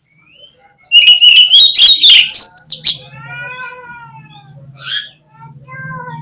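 Oriental magpie-robin song: a loud burst of fast, varied whistles and chattering notes about a second in, followed by quieter, drawn-out harsh calls.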